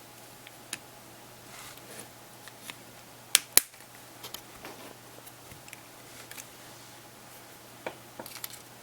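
Scattered small clicks and taps from handling the internal parts of a Galaxy Player during reassembly. Two loud sharp snaps come close together about three and a half seconds in, and a few quicker clicks follow near the end.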